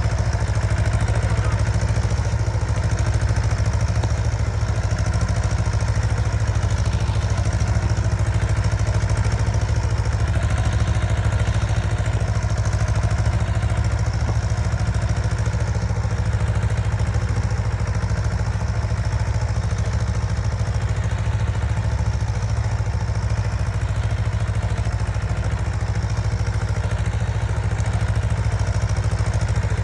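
Diesel tractor engines running steadily and hard under the load of a tug-of-war pull, a deep unbroken drone with some clatter.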